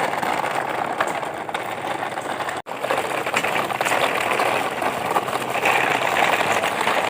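Toy trucks running over the ground, a steady rough rolling and motor-like rattle. It cuts out abruptly for a moment about two and a half seconds in.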